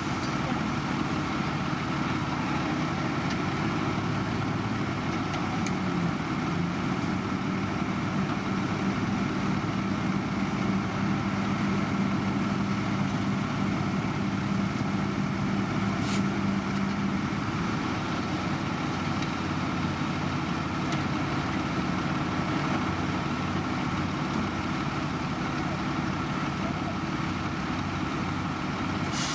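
Heavy diesel construction machinery running steadily, an even engine hum. A slightly higher pitched drone joins from about six seconds in and drops away a little past halfway.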